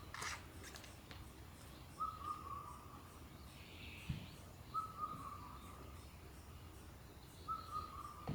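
A bird calling in the forest, giving the same short, slightly warbling note three times, about every three seconds.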